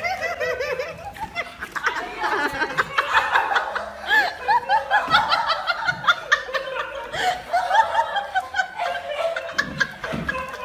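Overlapping laugh-like sound: many short, rising-and-falling squeaky calls in quick succession.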